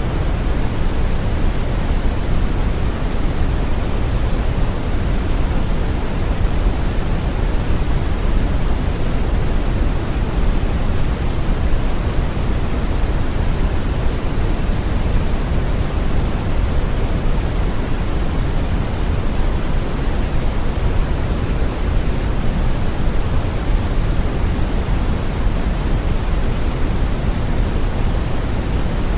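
Steady brown noise: a constant, even rumbling hiss, heaviest in the low bass and fading toward the treble, with no changes.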